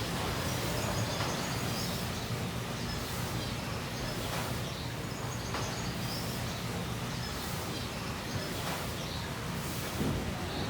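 Indoor aviary ambience: a steady low hum with faint, scattered high bird chirps over it.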